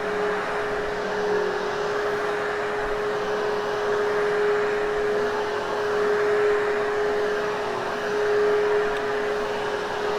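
Hoover HushTone upright vacuum cleaner running steadily with a constant whine, pushed back and forth over a heavily hair-covered carpet; its level swells and dips gently with the passes.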